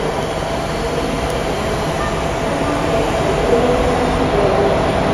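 A train running by a station platform: a steady rumble that grows a little louder.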